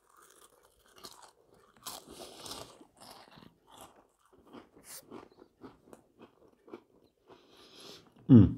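Mouth crunching and chewing an MRE cracker spread with apple jelly, in irregular crunches a few times a second, heaviest a couple of seconds in. Near the end comes a brief voiced sound, falling in pitch.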